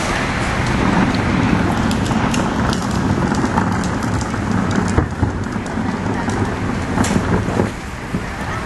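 Outdoor street noise: a steady low rumble like passing traffic, with scattered short knocks and clicks throughout, one sharper knock about five seconds in and a cluster near seven seconds.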